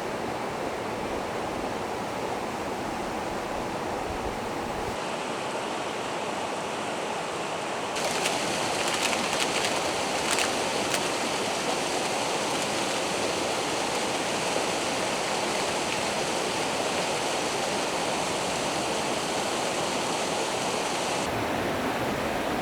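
Steady rushing of a forest stream. The sound changes abruptly twice and gets louder about eight seconds in, with a few faint sharp clicks soon after.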